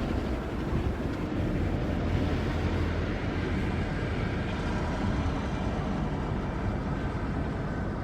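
Steady road and engine noise heard from inside a car driving along a highway, with traffic alongside.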